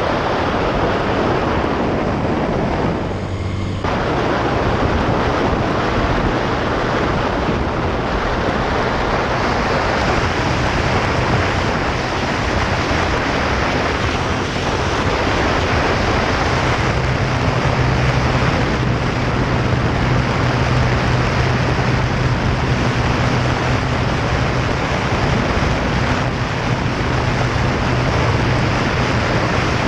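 Wind rushing over the microphone on a moving motorcycle, with the steady drone of the motorcycle engine underneath; the engine note grows stronger about halfway through.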